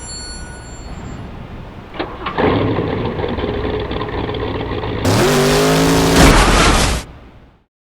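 Car engine sound effect: a sharp click about two seconds in, then an engine running, which revs up loudly with a rising pitch about five seconds in and cuts off about seven seconds in.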